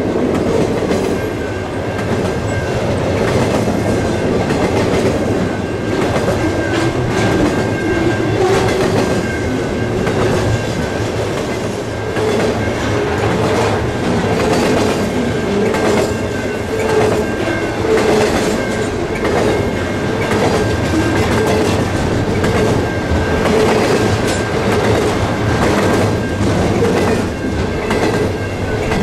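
Intermodal freight train's trailer-on-flatcar cars rolling past: a steady rumble of steel wheels on rail with a continual clatter of clicks from the wheels over the rail joints, and a thin steady high tone above it.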